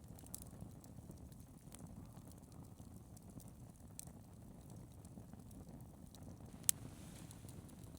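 Wood campfire crackling, with scattered small pops and one sharp crack near the end, over a low steady rumble.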